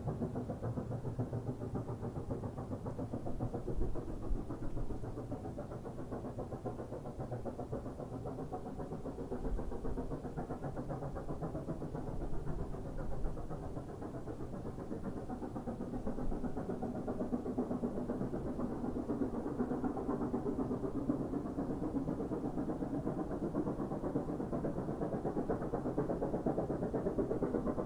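SY-class steam locomotive working, a steady low rumble of its exhaust and running gear.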